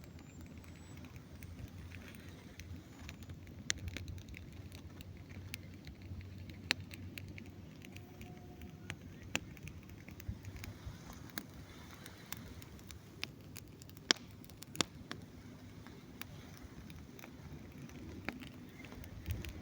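Campfire crackling: irregular sharp pops and snaps, a few louder than the rest, over a low steady rumble.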